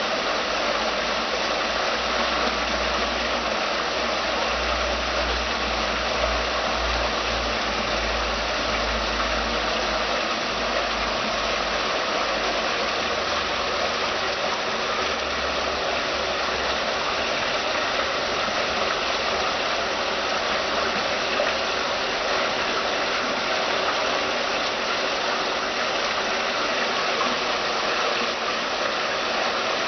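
Water running down the tiers of a stainless-steel stepped cascade fountain: a steady, even splashing rush. A low rumble sits under it through roughly the first half.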